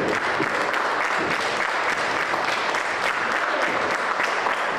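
Live wrestling crowd applauding steadily, with a few voices shouting.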